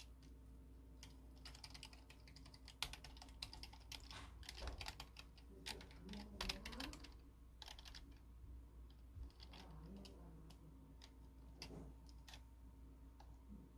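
Faint typing on a computer keyboard: irregular runs of key clicks, densest in the first half.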